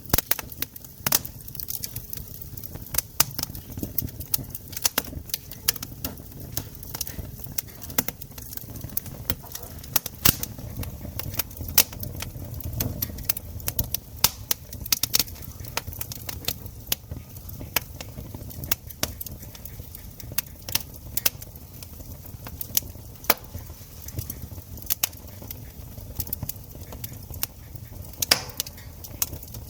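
Wood campfire crackling, with irregular sharp pops a few times a second over a low steady rumble.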